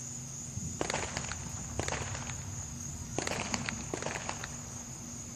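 Steady high trill of night insects, with three short clusters of sharp crackles and clicks about a second apart and a low rumble underneath.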